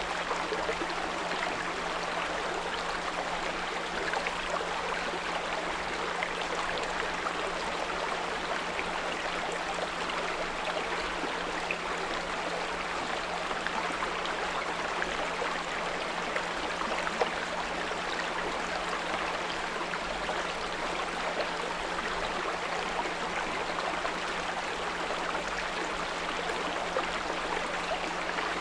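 Small brook flowing steadily, with a constant low 174 Hz pure tone sounding underneath the water.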